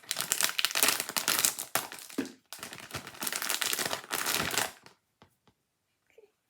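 Crinkling and tearing of a Labubu blind box's packaging being opened by hand, a dense crackle for nearly five seconds that stops abruptly, followed by a few faint small clicks.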